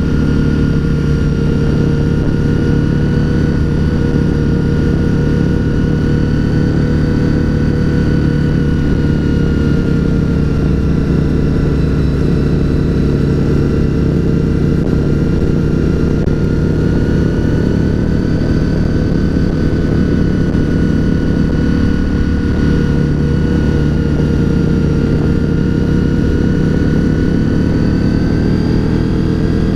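Honda RC51's V-twin engine running steadily under way, heard from the rider's seat. Its pitch rises and falls gently through the corners.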